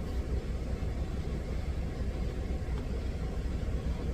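Steady low rumble of a semi-truck's diesel engine idling.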